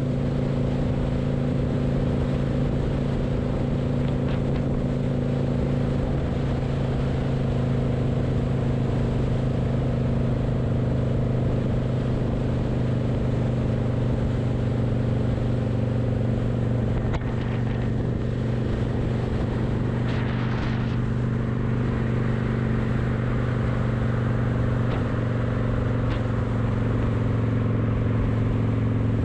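Kawasaki motorcycle engine running at a steady cruise while being ridden.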